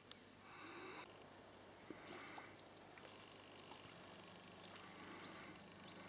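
Faint birdsong: a small bird's quick, high chirps and short whistled notes, coming more often in the last couple of seconds, over a soft background hiss.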